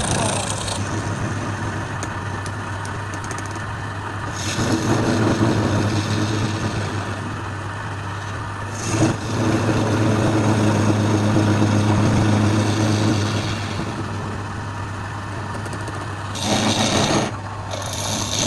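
Wood lathe motor running with a steady hum, with two long louder, rougher stretches and a short burst near the end as a turning tool scrapes the spinning wood.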